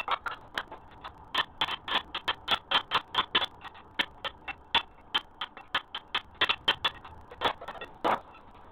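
Rapid, irregular sharp taps or clicks, several a second, that stop briefly shortly before the end.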